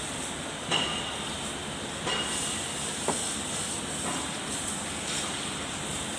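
A steady hiss of background noise with a few short sharp knocks, the loudest about a second in.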